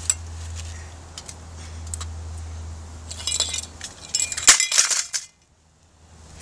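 Broken ceiling fan parts clinking and rattling under blows as the fan is smashed: scattered sharp clinks, a louder clattering burst about two-thirds of the way in, then the sound cuts out suddenly.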